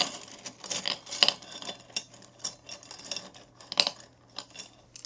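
Small hard objects clinking and rattling, in irregular sharp clicks with two louder clicks, one about a second in and one near four seconds.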